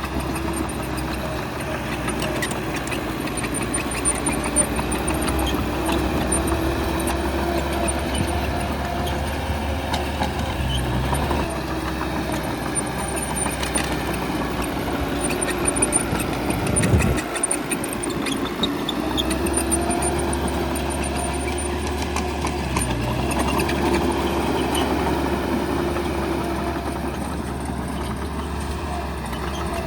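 Bulldozer's diesel engine running under load, its note rising and easing as it works, with a few clanks around the middle and a brief dip in the engine's low hum about seventeen seconds in.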